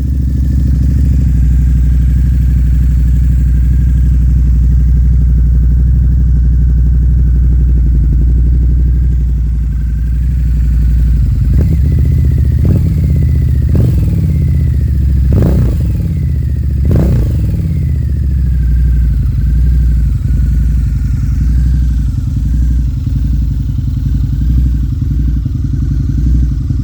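2009 Harley-Davidson V-Rod Muscle's liquid-cooled Revolution V-twin running through a Vance & Hines aftermarket exhaust, idling steadily just after starting. About halfway through it gets five quick throttle blips, each one rising sharply and dropping back to idle, then it settles back to a steady idle.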